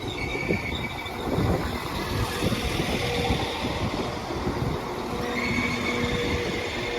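West Midlands Railway Class 196 diesel multiple unit arriving at the platform: a steady rumble of engine and wheels, with faint high whines that come in more strongly about five seconds in.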